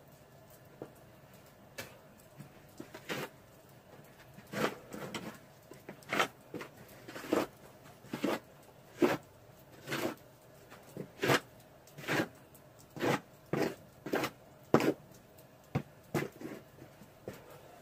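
Footsteps crunching through deep snow at a steady walking pace, about one step a second, starting a few seconds in.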